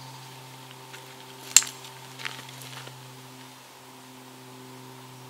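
A single sharp metallic clink about a second and a half in, with a few lighter clicks around it, over a steady low hum.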